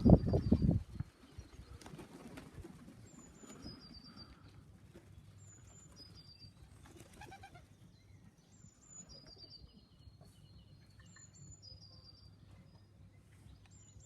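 A loud flurry of wingbeats in the first second, like pigeons taking off from the loft. After that, a small songbird repeats a short, high two-part phrase every second or two.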